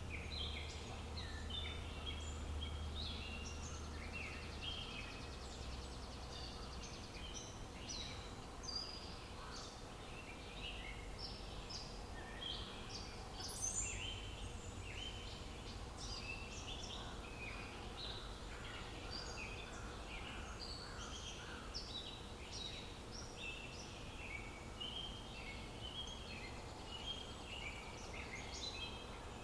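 Many wild birds chirping and singing over one another in a dense, continuous chorus, over a low steady rumble of outdoor ambience.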